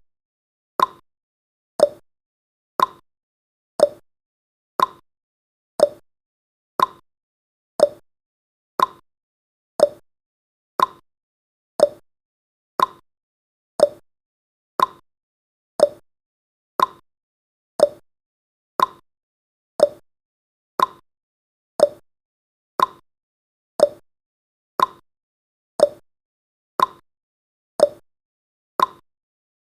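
Clock-style tick-tock sound effect from a countdown timer: one short click every second, alternating between a lower and a higher click.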